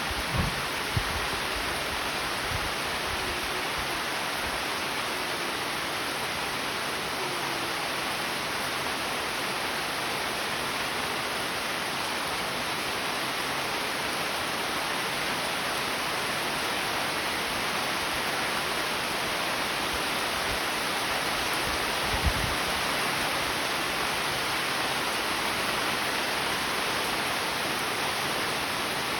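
Steady rain falling, an even hiss without a break, with a few brief low thuds near the start and one about two-thirds of the way through.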